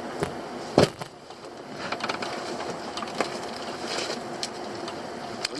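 Knocks and clatter from a crab pot being handled, with one sharp knock about a second in and lighter clicks after it, over a steady background hiss.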